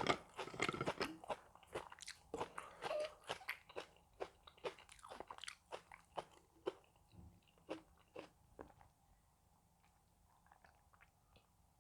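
A person chewing and crunching food, with many small crisp bites that thin out and stop about nine seconds in.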